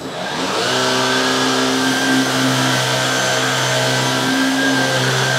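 Black + Decker PowerSeries 16V cordless stick vacuum switched on: its motor and brush roll spin up within the first second, then run at a steady pitched hum.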